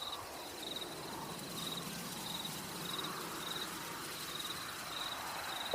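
An insect chirping in short, high trills, about one every two-thirds of a second, over a soft steady hiss of outdoor ambience.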